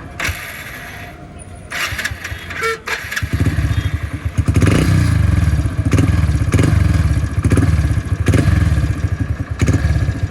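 Hero Splendor's single-cylinder four-stroke engine ticking over, then revved in repeated throttle blips from about three seconds in. There is no timing-chain rattle: the chain has been replaced and the noise is cured.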